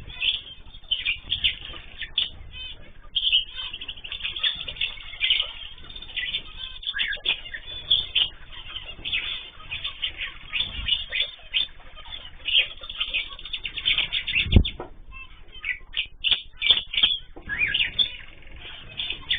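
A mixed flock of cage birds (cockatiels, canaries and zebra finches) chirping busily, many short overlapping calls. One sharp thump about three-quarters of the way through.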